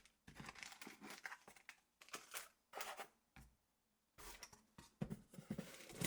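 Faint, irregular rustling and scraping of packaging as a model helicopter is lifted out of its foam carrying case, in short bursts with brief pauses.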